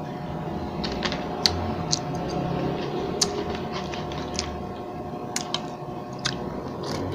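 Close-miked eating sounds: chewing and wet mouth clicks. A fork taps and scrapes on a plate, giving scattered sharp clicks over a steady low hum.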